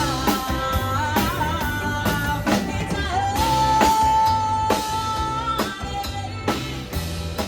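A band playing a rock cover song with a lead vocal over drums and guitar, the drums striking at a steady beat. A bit after the start the singer holds one long note for about two and a half seconds.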